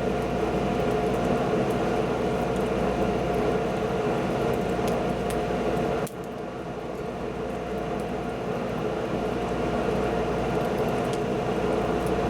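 Wood fire burning: a steady rushing roar with a few faint sharp crackles.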